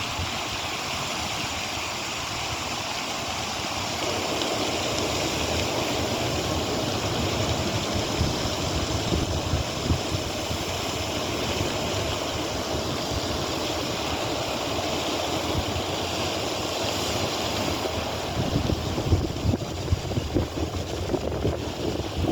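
Strong wind blowing and buffeting the microphone in gusts, with a steady rushing hiss under low rumbling thumps. It picks up a few seconds in and turns gustier near the end.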